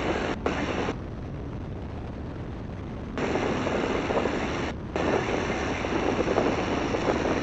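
Great Lakes open-cockpit biplane in flight: steady engine and wind noise as picked up through the cockpit audio, with a hiss over it that cuts out abruptly about a second in, comes back about three seconds in, and drops out again briefly near five seconds.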